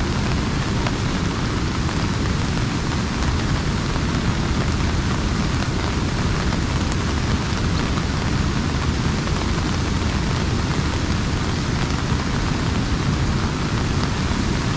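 Steady rain pattering on an umbrella.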